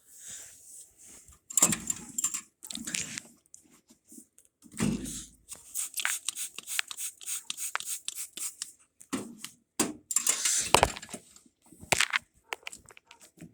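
Irregular knocks, clicks and rustling of objects being handled and set down, in short scattered bursts with brief gaps.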